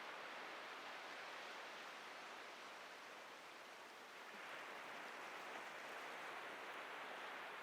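Ocean surf washing onto a beach: a steady hiss of breaking waves that eases a little about halfway through, then swells again.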